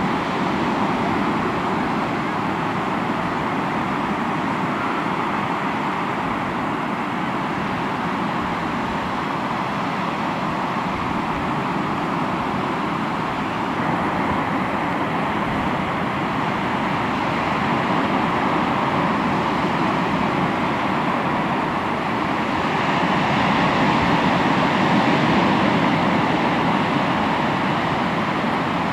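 Sea waves washing onto the shore in a continuous rush of surf, with one surge growing louder near the end.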